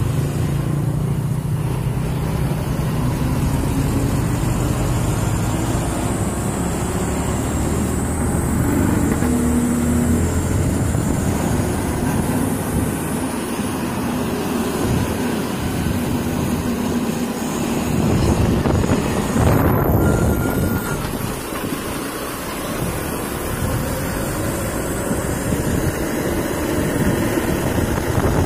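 Truck engines running and moving past, their pitch rising and falling, with one passing louder about two-thirds of the way through.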